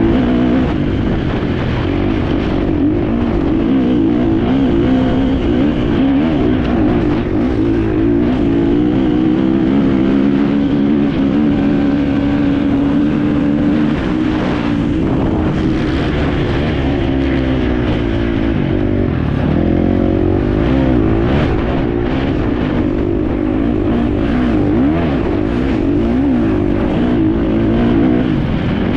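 Enduro motorcycle engine heard on board, revving up and down continuously as the rider works the throttle, with a strong low rumble underneath.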